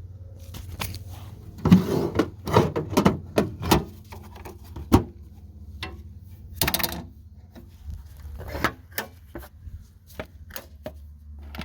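Pliers and metal parts clicking and knocking as a motorcycle's front brake cable is worked loose by hand. The knocks come in quick flurries, heaviest in the first few seconds, then sparser single knocks. A steady low hum runs underneath.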